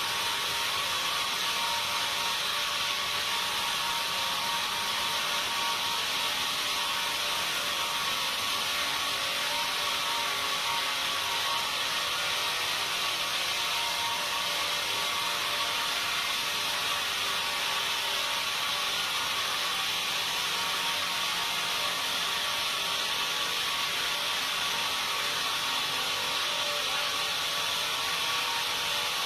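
Sawmill saw running steadily through timber: a constant hiss with a few faint steady tones, no change in pace.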